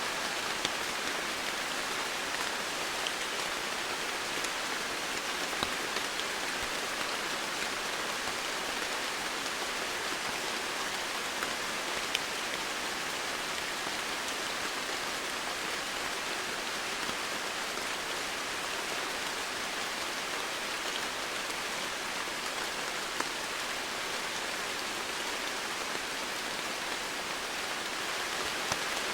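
Steady rain falling, an even hiss with occasional individual drops ticking on nearby surfaces.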